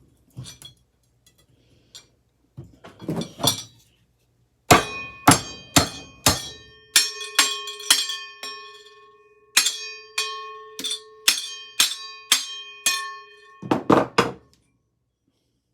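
A few metal knocks, then from about five seconds in a run of some twenty hammer blows on metal ceiling-fan parts, about two a second, the struck metal ringing on between blows.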